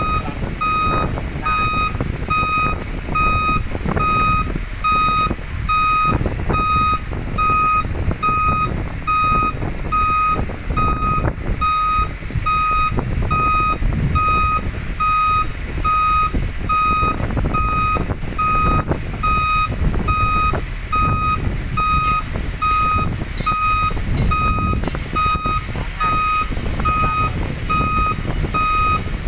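A large truck's reversing alarm beeping in a steady on-off rhythm over the low rumble of its engine, the truck backing up.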